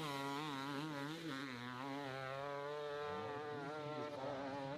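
Motorcycle engine running hard at high revs with a buzzing note, its pitch wavering up and down as the throttle is worked on the climb.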